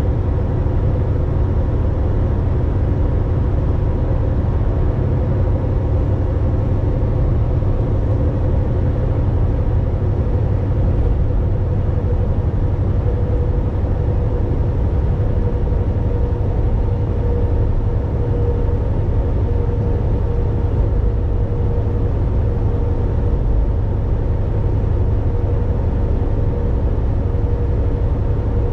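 Volvo VNL 860 semi-truck cruising on the highway: a steady low drone of diesel engine and road noise, with a faint steady whine above it.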